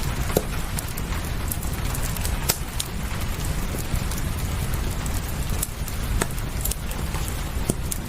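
Steady rain with a wood fire crackling over it, sharp irregular pops and snaps scattered through the rush.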